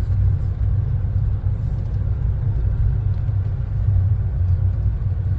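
Low, steady rumble of a car driving slowly, engine and road noise heard from inside the car.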